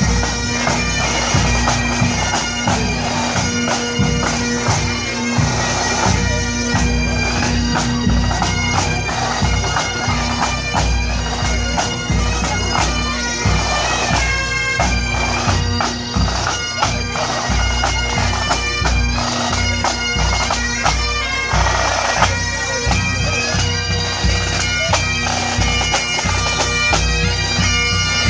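Highland bagpipes playing a tune over their steady, unbroken drone.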